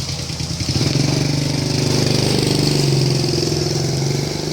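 Motorcycle engine running. About a second in it revs up and runs louder with a pulsing note, then drops away near the end, over a steady hiss of wind.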